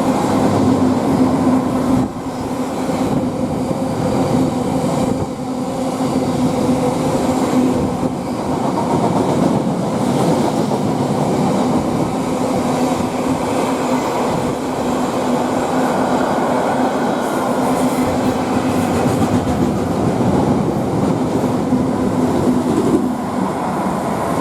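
Class 66 diesel-hauled intermodal freight train running through the station, its wagons rolling over the rails in a steady, continuous rumble with a steady low hum over it.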